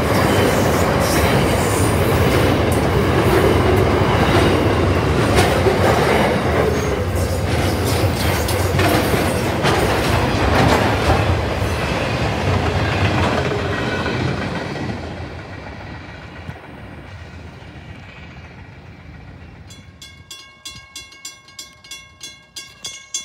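Freight train of double-stacked container wagons passing, wheels clacking over the rails, fading away about fifteen seconds in. Near the end a level-crossing bell rings, about two strokes a second.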